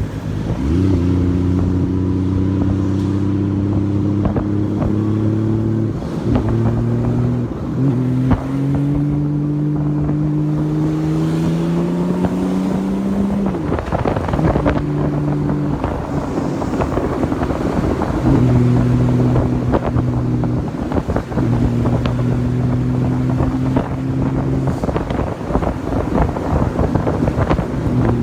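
Honda Valkyrie motorcycle's flat-six engine running under way, its note climbing steadily for several seconds and stepping down several times as gears change, with wind buffeting the microphone.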